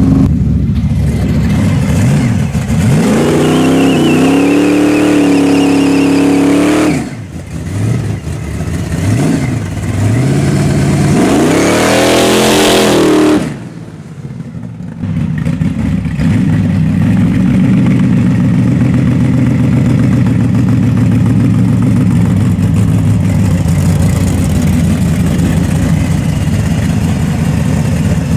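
Pickup truck engine under hard acceleration: revs climb, ease off about seven seconds in, climb again, then drop back near the middle and settle into a steady cruise. The truck's rear squats under the pull.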